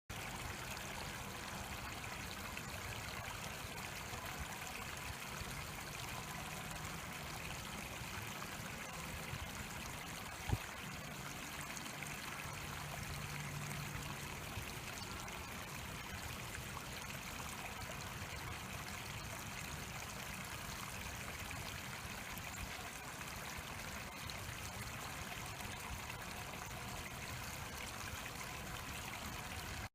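Water running steadily through a man-made drain, a constant stream of flowing water with one sharp click about a third of the way in.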